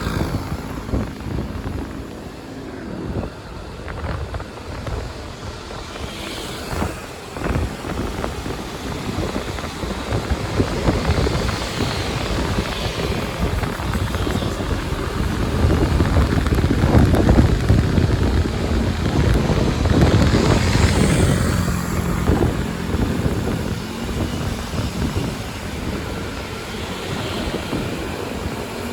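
Motorbike taxi riding through city traffic: the engine running, with wind buffeting the microphone. It gets louder from about ten seconds in and eases off again after about twenty-two seconds.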